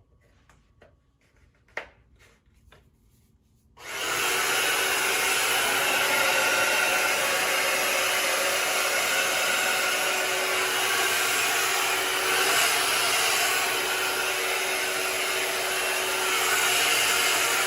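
A few faint clicks, then the Slopehill 1800W ionic hair dryer switches on about four seconds in and runs steadily, a loud rush of air with a faint steady hum in it.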